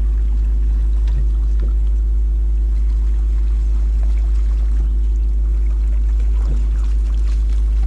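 A boat's motor running steadily as it moves along, with heavy wind rumble on the microphone underneath it.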